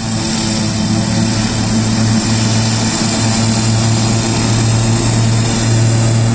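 Air Tractor AT-502's PT6A turboprop engine and propeller running at takeoff power, a steady low propeller hum under a broad rushing hiss, slowly growing louder.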